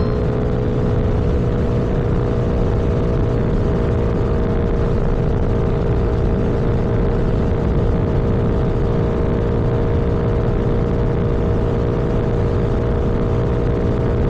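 Vehicle cruising at a steady speed: a constant engine drone over road noise, with no change in pitch.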